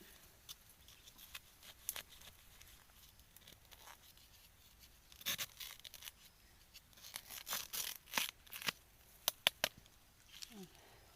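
Irregular cracking and tearing as a wild bamboo shoot is harvested, with the loudest cracks bunched about halfway through and again near the end.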